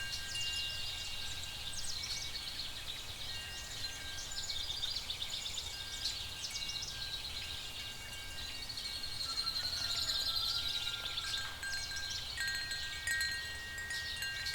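Fantasy night-forest ambience: several held, high chime-like tones over a dense, rapid high chirping of night creatures and a low steady rumble. A short gliding call rises and falls about two-thirds of the way through.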